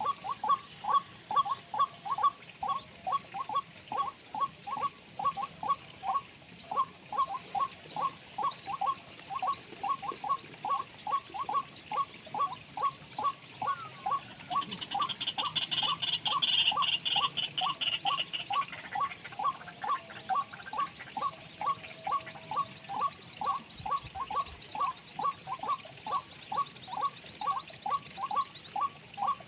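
Bird-lure call played on a loop: a short note repeated very evenly, about three times a second, with a higher chattering call joining briefly around the middle.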